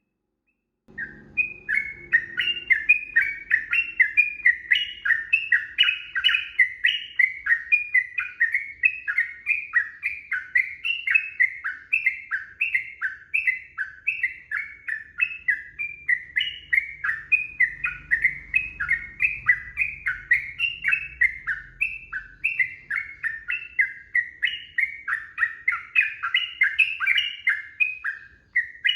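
Yellow-vented bulbul (trucukan) singing a long, unbroken run of rapid short notes that slide up and down in pitch, starting about a second in.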